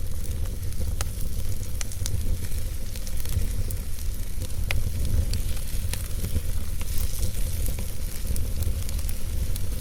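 Wood fire burning in a fireplace: crackling and popping at irregular intervals, a few pops louder than the rest, over a steady low rumble and a fine hiss.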